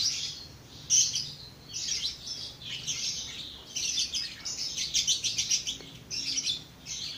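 Many birds chirping, in repeated runs of quick high chirps that are busiest about four to five seconds in.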